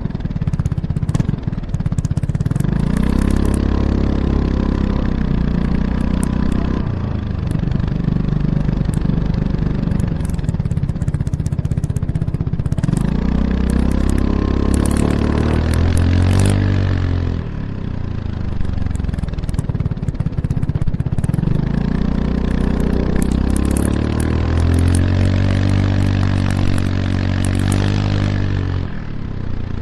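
Kymco X-Town scooter's single-cylinder engine through an Arrow Urban exhaust with its dB killer fitted, heard close to the exhaust while riding. It accelerates three times, the pitch rising and holding, and falls back each time the throttle is eased off.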